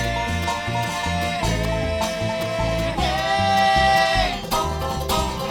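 Acoustic bluegrass band playing the closing bars of a slow song, banjo and guitar over a walking bass, with long held notes on top, winding down to a final chord at the very end.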